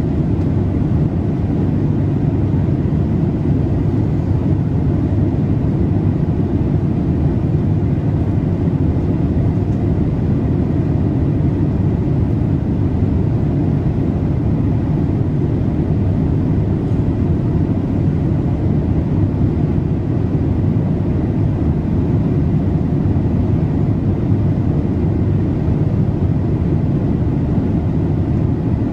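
Steady low rumble of cabin noise inside a Boeing 787-8 in cruise flight: engine and airflow noise heard from a passenger seat, with a faint steady high tone above it.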